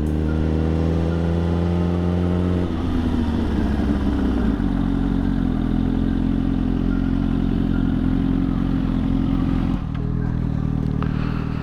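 Suzuki GSX-R1000's inline-four engine accelerating, its pitch rising steadily for the first couple of seconds, then dropping and running at a steady pitch while cruising, with the note falling again near the end as it slows.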